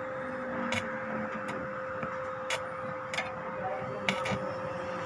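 Foam shredding machine running: a steady motor hum with a constant whine, and irregular sharp clicks about once a second.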